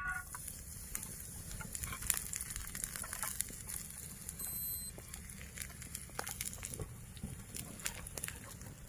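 Irregular crackling with many sharp clicks over a steady low rumble, and a short high beep-like tone about four and a half seconds in.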